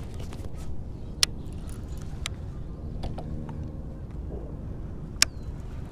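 Steady wind noise on the microphone, with a few sharp clicks or knocks; the loudest come about a second in and near the end.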